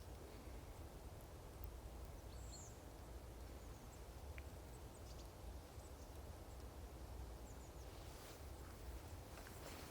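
Blizzard wind, a steady low rumbling rush, with a few faint scattered high ticks and a brief hiss near the end.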